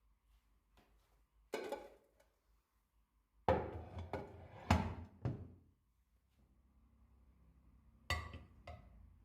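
A few knocks and clatters of objects being handled: a single knock, then a cluster of several more, then two near the end.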